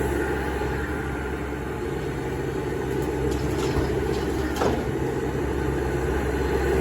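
Heavy diesel machinery running steadily as an excavator loads dirt into dump trucks, a low engine drone with a few faint clicks about halfway through.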